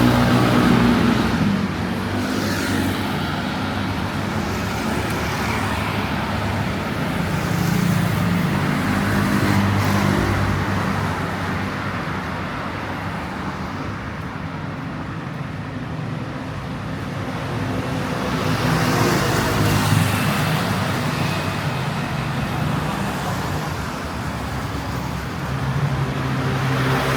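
City street traffic: cars and other motor vehicles running and passing, the noise swelling and fading as vehicles go by, easing off about halfway through and building again near the end.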